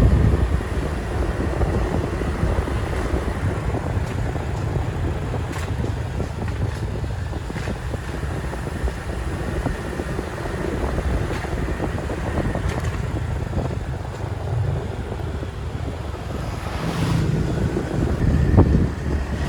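Motorbike ride: steady engine and road noise with wind buffeting the microphone.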